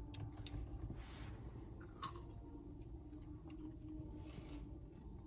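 Quiet chewing of a mouthful of Kinder Joy chocolate cream and chocolate wafer balls, with one sharp small click about two seconds in.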